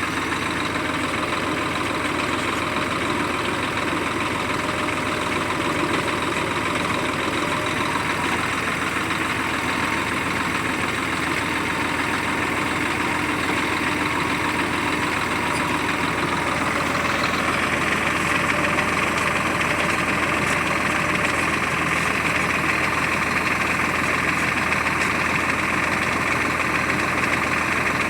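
Diesel engine of a heavy vehicle running steadily, growing slightly louder and harsher about seventeen seconds in.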